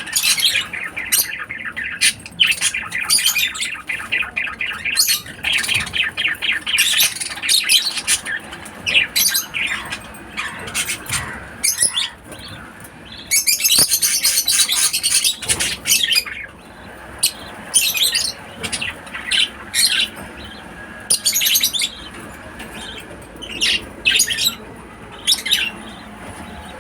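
Lovebirds chirping and squawking in short, high-pitched calls, one after another, with a longer unbroken run of chatter about halfway through.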